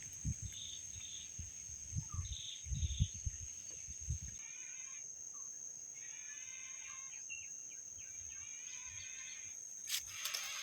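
Steady high-pitched insect trill, like a cricket, with birds calling over it: a few short calls in the first three seconds, then three rasping, rapidly repeated bursts of calls a second or so long. Low thumps and rumbles in the first four seconds.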